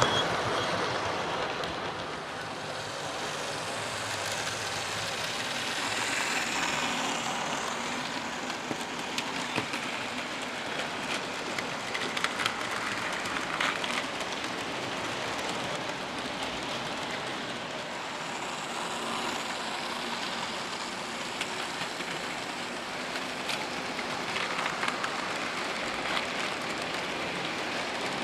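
00 gauge model locomotives running along layout track: a steady hiss of motors and wheels on rail, with scattered small clicks.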